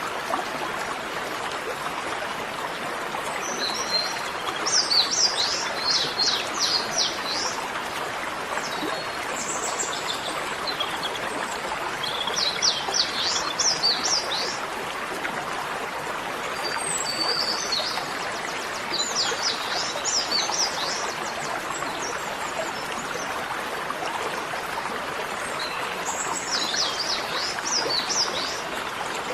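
Small songbirds singing in several bursts a few seconds apart, each a quick run of high, falling notes, over a steady rushing noise.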